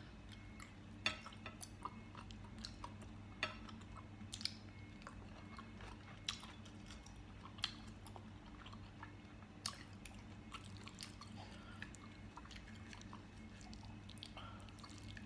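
A person chewing a mouthful of chewy rice cake, with scattered wet mouth clicks every second or two.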